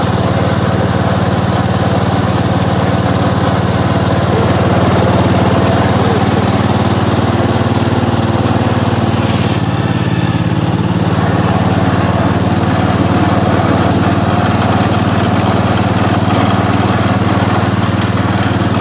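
Gravely 812 walk-behind tractor's engine running steadily, with a slight change in pitch about ten seconds in.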